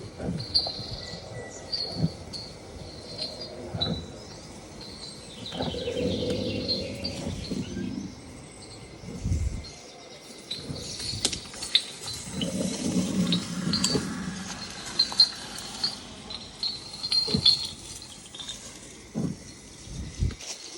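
Insects chirping in short repeated calls, over intermittent low rumbling and a few scattered thumps.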